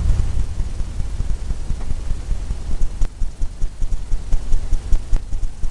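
Paint brush tapping and dabbing paint onto a stretched canvas, heard as low rhythmic thumps about two to three times a second over a steady low rumble.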